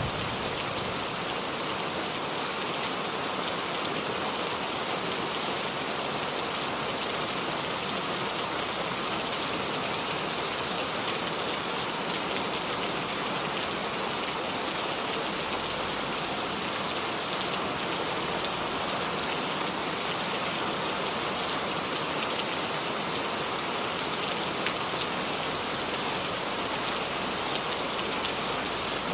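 Steady rain falling on a roof, a dense, even hiss with no thunder.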